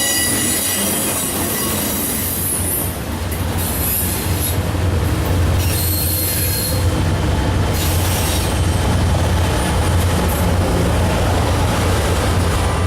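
Freight train rolling past, its wheels squealing in high-pitched spells over a steady low rumble.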